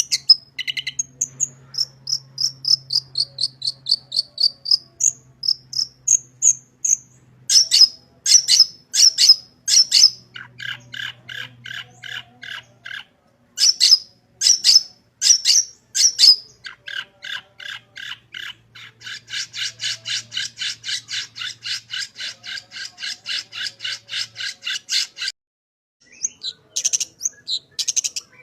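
Long-tailed shrike (cendet) singing a loud, varied song full of mimicked phrases: runs of sharp high chirps and whistles, and long stretches of fast buzzy notes repeated about four times a second, with brief pauses between passages.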